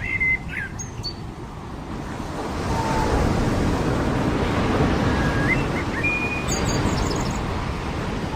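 Ocean surf: a wave swells up, breaks and washes in, then eases off. Small birds chirp and whistle briefly at the start and again about two-thirds of the way in, with a quick run of high chirps.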